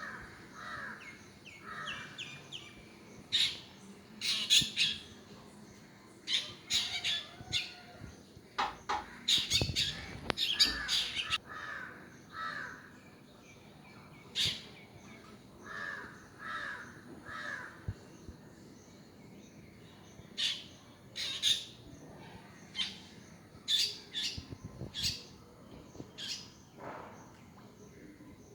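Birds calling: short, sharp, high squawks coming in irregular clusters, with softer, lower calls between them.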